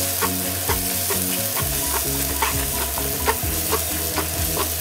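Onion and spice masala frying in coconut oil in a nonstick pan, sizzling while a wooden spatula stirs and scrapes it, about two strokes a second: the ground spices being sautéed into the onions.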